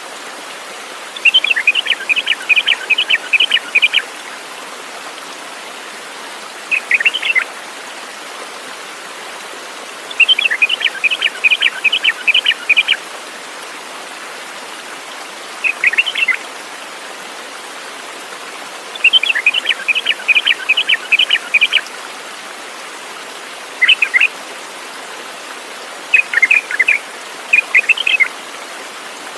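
A songbird singing. A fast run of about eight to ten sharp notes lasting under three seconds comes three times, about nine seconds apart, with shorter two- or three-note calls in between. Beneath it runs a steady hiss.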